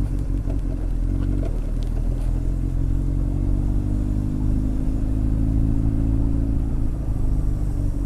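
Honda X4's inline-four engine running at a steady cruise. Its note dips slightly about a second and a half in, then climbs gently. A few light clicks and rattles come in the first couple of seconds.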